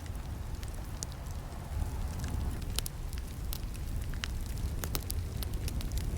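Campfire burning with a steady low rumble and frequent irregular crackles and sharp snaps of burning wood.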